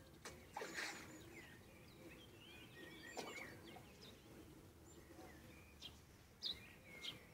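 Faint birdsong: several small birds chirping in short rising and falling whistles. A few short sharp sounds stand out, the loudest about a second in and about three seconds in.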